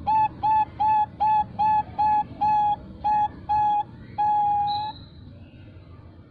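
Female Bangkok-bred zebra dove (perkutut) cooing: a run of short, evenly spaced coos, about three a second, closing just after four seconds in with one long, drawn-out final note, the prized "long ending" of its song.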